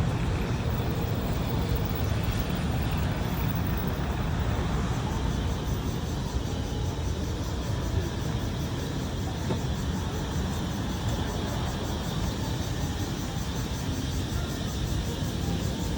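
Steady low rumble of city traffic, with a faint high cicada drone above it.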